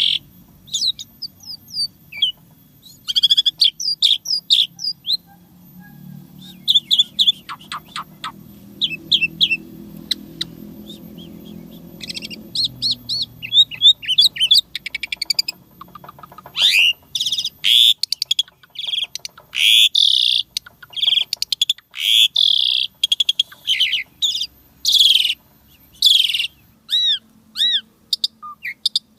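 Pied starling (jalak suren) singing a fast, varied string of chirps, whistles and rattling trills, with mimicked fill-in phrases. It grows denser and louder in the second half.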